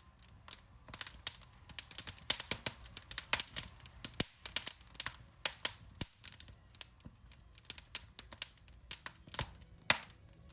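Wood fire crackling in a fireplace: many irregular sharp pops and snaps, some in quick clusters, over a faint low rumble.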